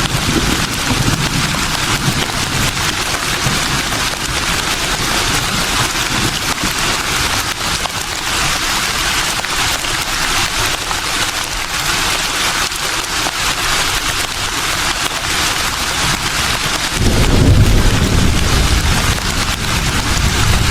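Steady rustling of leaves in the wind, an even hiss. A low rumble rises under it about three-quarters of the way through and fades near the end.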